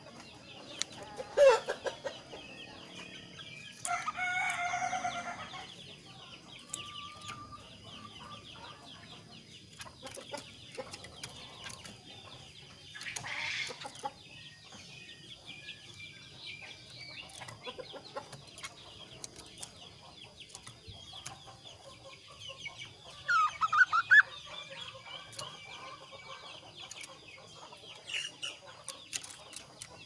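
Caged kaso-kaso bird calling in separate bursts with quiet gaps. There is a loud short call about a second and a half in, a longer call lasting over a second around the fourth second, and a quick run of short rising notes a little over three-quarters of the way through.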